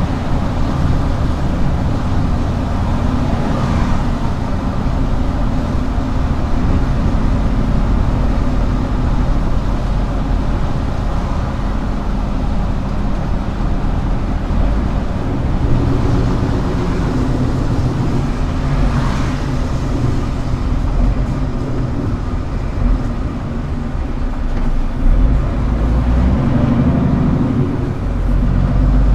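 Scania R410 concrete mixer truck with its diesel engine running, a steady low rumble.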